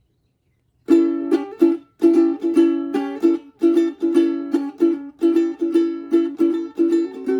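Ukulele played as a tune of plucked notes and chords, starting about a second in, each note ringing and fading before the next.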